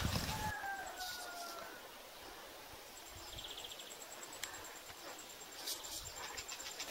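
Birds calling in a tree: a slowly falling whistled note lasting about a second and a half, then a short buzzy trill and a few sharp ticks. A thin, steady high tone runs underneath.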